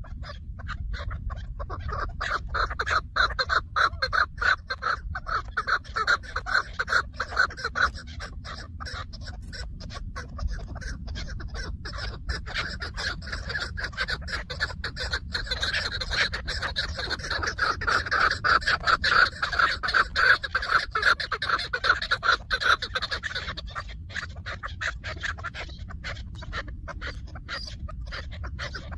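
Chukar partridge calling: a long run of rapid, repeated clucking notes that swells louder twice.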